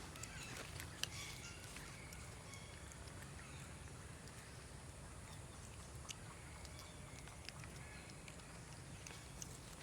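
Faint outdoor ambience: a steady low rumble with scattered small clicks and taps, the sharpest about a second in, and a few short faint high chirps.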